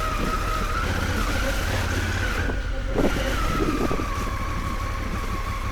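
Honda Africa Twin adventure motorcycle's engine running steadily as it rides off-road, with a thin tone that drifts slowly in pitch over the engine's low rumble. The upper hiss drops out briefly about halfway through.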